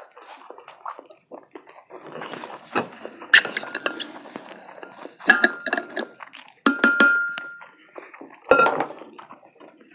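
Metal cutlery clinking and scraping against a dish, with several sharp clinks that ring briefly; the loudest come about three and a half, five and a half, seven and eight and a half seconds in.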